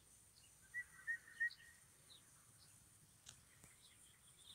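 Three short, high chirps about a second in, the loudest sounds here, with fainter bird chirps scattered through a quiet field ambience and a couple of faint clicks.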